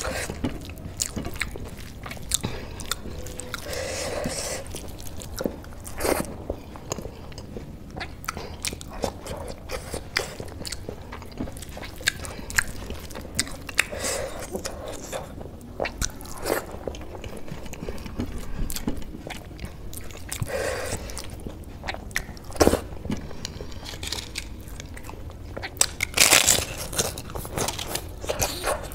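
Close-up eating: chewing and biting of rice and black-eyed pea curry, with many short wet clicks and crunches. Near the end comes a louder run of crunching as a piece of crisp papad is bitten.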